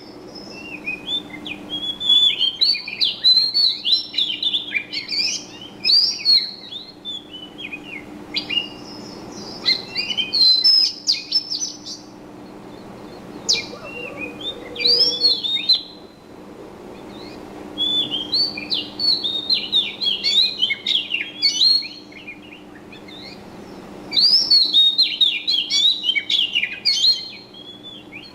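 Small birds chirping and twittering in rapid bouts of short high notes, each bout lasting a few seconds with brief pauses between, over a faint steady low hum.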